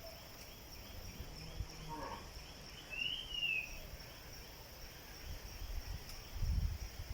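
Faint outdoor background of a steady high insect drone, with a single brief high bird note that rises and falls about three seconds in, and a low rumble near the end.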